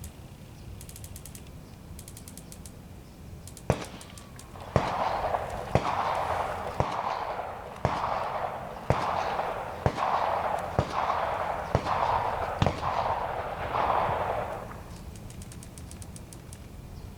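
Rifle scope turrets being clicked for windage and elevation: small runs of fine clicks, then about ten sharper knocks roughly once a second, each followed by a short rushing noise.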